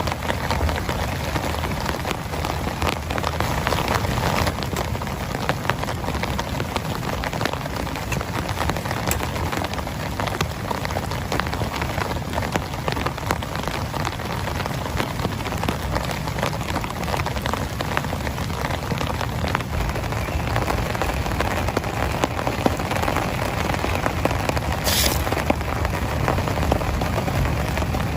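Heavy rain falling steadily, with many separate drops striking a surface, and a brief sharp hiss near the end.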